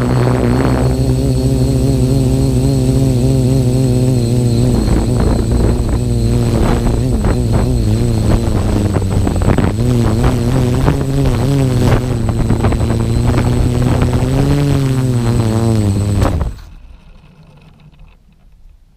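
Q450 quadcopter's electric motors and propellers buzzing in flight, their pitch wobbling constantly as the untuned PID flight controller and gusty wind keep it correcting. The buzz stops abruptly near the end, leaving only faint noise.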